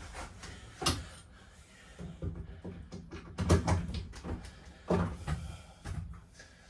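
Irregular knocks, clunks and clicks of an RV's interior fittings being handled during a tear-out, like cabinet doors and panels banging. A sharp click comes about a second in, and the heaviest thuds fall around the middle.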